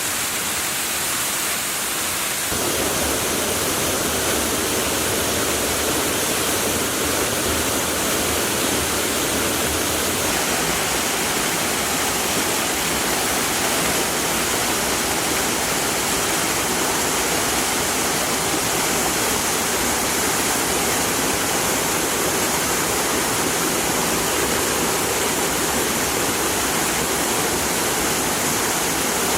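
Waterfall: a steady, unbroken rush of falling water. It gets a little louder and deeper about two and a half seconds in, then holds even.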